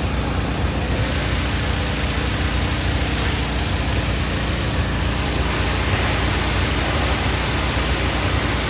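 Hot water pressure washer running steadily: a low engine and pump drone under the continuous hiss of the spray, as the water is still warming up.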